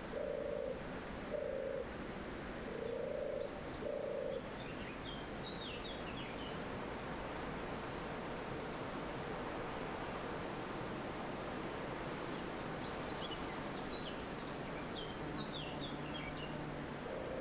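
Steady forest wind with birds chirping in short high twittering bursts, about five seconds in and again near the end. In the first four seconds an animal gives a run of low calls, each about half a second long.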